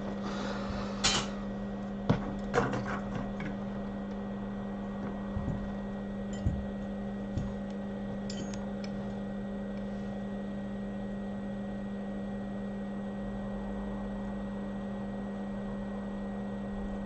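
Steady electrical hum of workbench equipment, with a few light clicks and taps of small tools in the first eight seconds.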